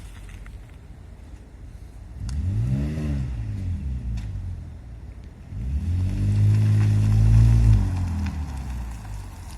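Fifth-generation Ford Explorer's exhaust, fitted with an aftermarket resonator and mufflers, at idle and then revved twice. The first is a short blip that rises and falls about two to four seconds in. The second, louder rev is held for about two seconds before dropping back to idle.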